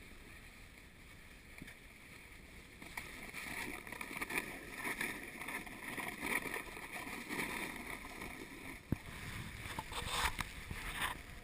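Snowboard sliding over snow: a steady scraping rush that grows louder about three seconds in, with a few sharp knocks near the end.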